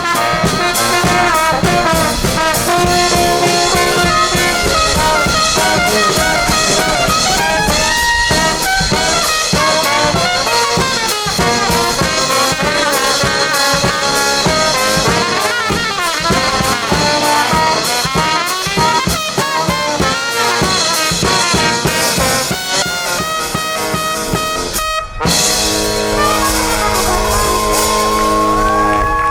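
Live brass band with trumpets, trombones and drum kit playing an upbeat tune; after a short break about 25 seconds in, the band holds a long final chord.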